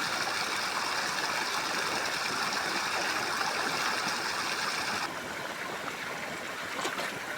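Steady rush of running water, dropping abruptly to a slightly quieter rush about five seconds in.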